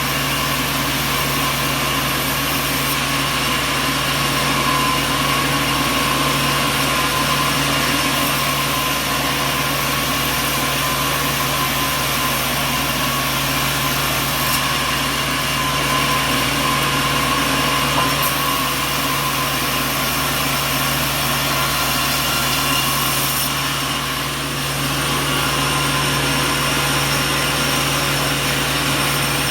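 Sawmill machinery running steadily, a continuous motor drone with a constant hum and a higher whine.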